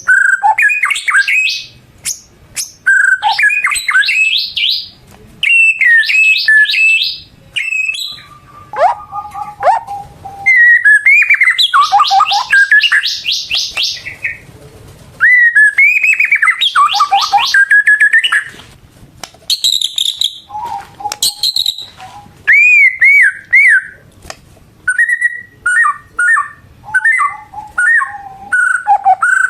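White-rumped shama (murai batu) in full song: a steady run of varied phrases of clear whistles, rapid repeated notes and trills, each phrase a second or two long with short pauses between.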